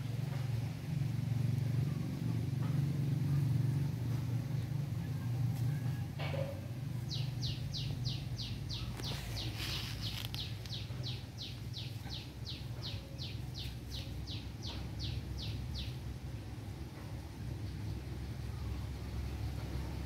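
A bird calling a fast, even series of about two dozen short descending chirps, about three a second, from about seven to sixteen seconds in, over a steady low rumble.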